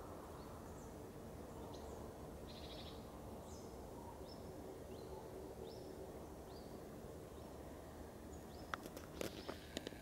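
A small bird repeating short, high single-note chirps about once or twice a second over a steady low background hum, with several sharp clicks near the end.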